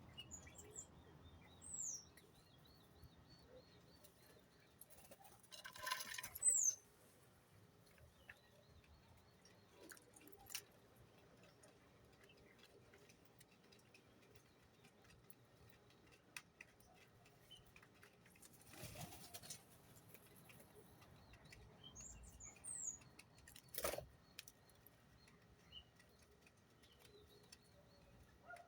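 Small birds chirping now and then, each call a brief high falling note, with two short rustling bursts and one sharp tap; otherwise quiet.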